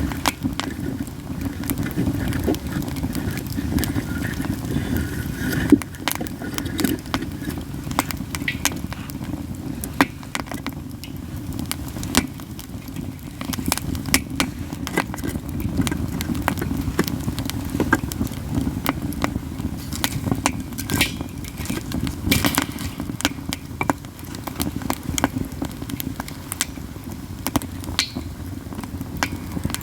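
Katsura wood campfire burning, crackling constantly with irregular sharp pops, some much louder snaps standing out, over a steady low rush of the fire.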